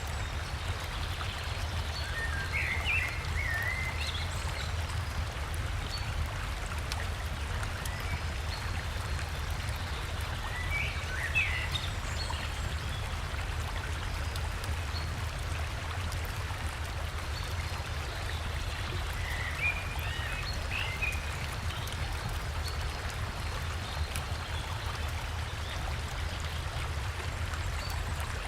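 River water rushing steadily over rocks, with a deep low rumble beneath it. A small songbird sings three short, warbling phrases: near the start, about a third of the way in, and again past the middle.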